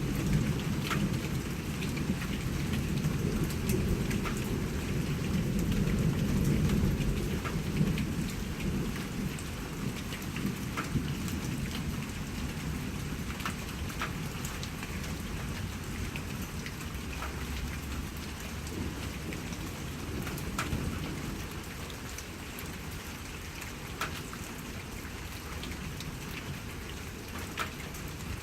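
Steady rain with individual drops ticking, under a low rolling rumble of thunder that builds to a peak about six or seven seconds in and dies away by about ten seconds.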